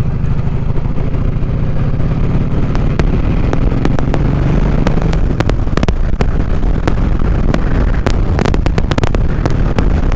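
Kawasaki Vulcan Vaquero's V-twin engine running at low revs while cruising, rough-sounding with the exhaust baffles removed. From about three seconds in, wind on the microphone adds many sharp crackles.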